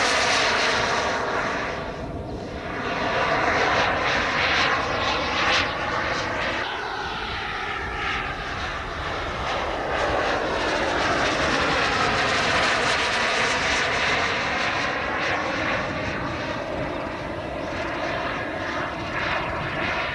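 Turbine engine of a large RC model jet running in flight, a loud steady rush and whine whose pitch sweeps down and back up as the plane passes by.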